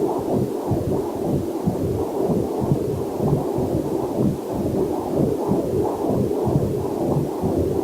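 Heartbeat heard through a fetal Doppler monitor: a steady run of low, muffled pulses, with a faint waterfall mixed in underneath.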